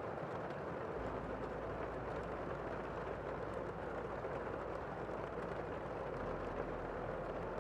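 Steady, gentle rain falling, an even hiss with no distinct drops or breaks.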